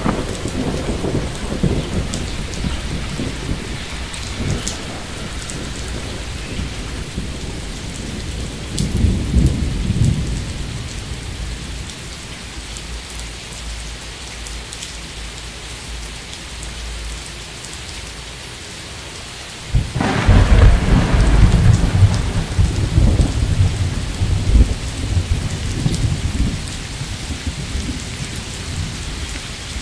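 Steady rain falling through a thunderstorm, with thunder rumbling: a rumble dying away in the first few seconds, a short low roll about nine seconds in, then a sudden loud thunderclap about twenty seconds in that rumbles on for several seconds before easing back under the rain.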